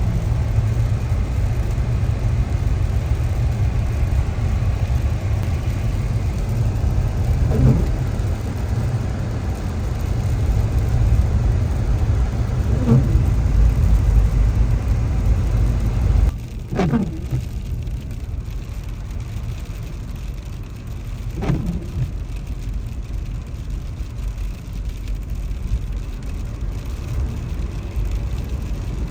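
Road noise inside a moving car: a steady low rumble of engine and tyres that drops suddenly about halfway through and stays quieter.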